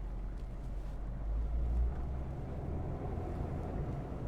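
AM General H1 Hummer driving: a steady low rumble of engine and road noise.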